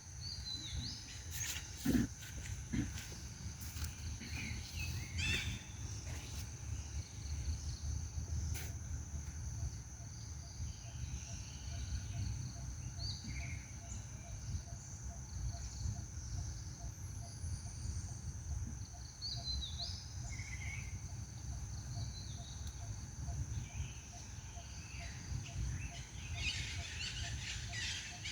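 Outdoor natural ambience: a steady high insect drone with scattered short, high animal chirps and squeaks, over a constant low rumble. A few sharp clicks come near the start.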